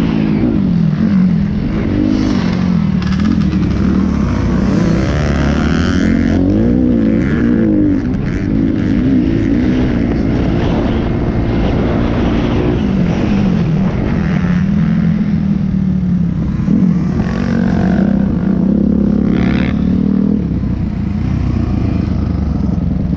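Motocross dirt-bike engines revving, their pitch rising and falling again and again as the bikes accelerate and shift.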